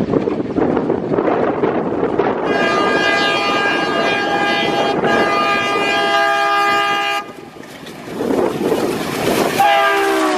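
Indian Railways locomotive horn sounding a long blast over the rumble and clatter of a passing train, with a short break partway through. The horn cuts off suddenly, the noise builds again, and another horn starts near the end, falling in pitch.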